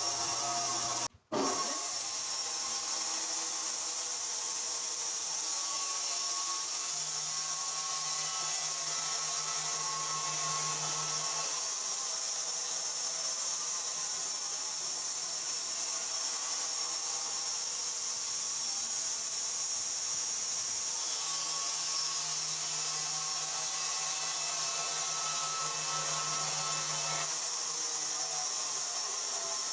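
Sawmill saw running steadily through wood, with a low hum that comes in twice, for a few seconds each time. The sound cuts out briefly about a second in.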